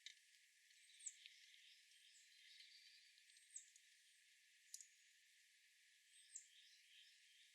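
Faint outdoor bird calls: three short, high chirps that bend down in pitch, about two and a half seconds apart, with softer twittering between them and one sharp tick about halfway through.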